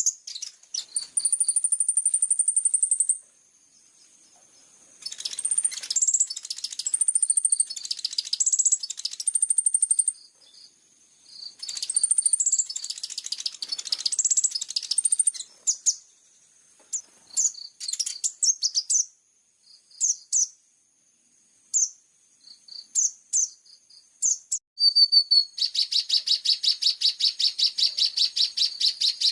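Small songbird singing a high-pitched song of chirps, short whistles and trills in phrases broken by brief pauses, ending in a long fast run of repeated notes.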